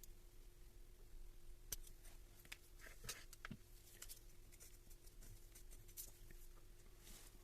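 Near quiet, with faint scattered clicks and light taps, a little louder between about two and four seconds in, over a low steady hum.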